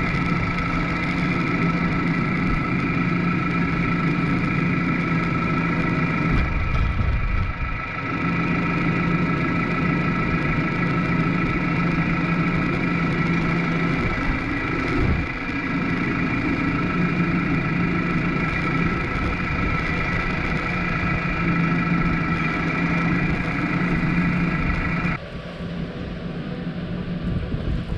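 New Holland T5 tractor's diesel engine running steadily with a constant whine over it. About three seconds before the end, the sound drops suddenly to a quieter level and the whine stops.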